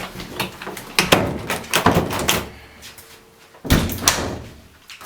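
A door opening and banging shut, among a run of knocks and thuds; the loudest bang comes about three-quarters of the way through.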